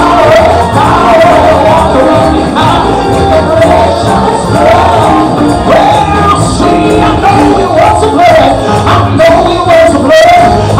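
Live gospel music: voices singing over instruments with a steady beat.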